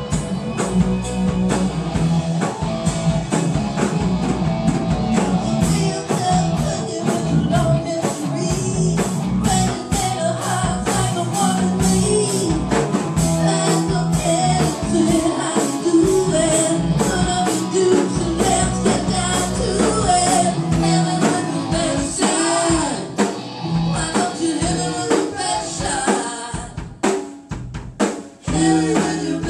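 Live band playing: drum kit with snare and bass drum under bass and singing. Near the end the band drops out briefly, leaving a few separate drum hits, then comes back in.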